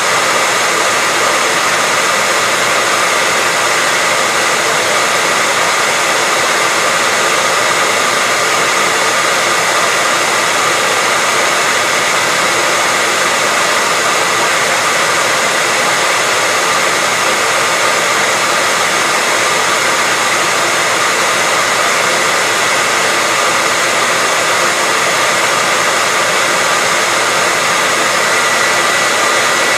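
Hair dryer running steadily: an even rushing blow with a faint high steady whine in it and no change in level.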